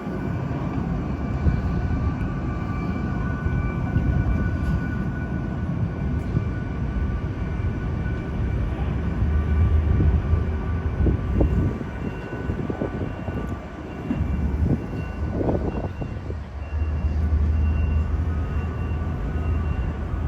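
Jet airliner noise at the gates: several steady high whines, as from running engines or auxiliary power units, over a low rumble that swells twice.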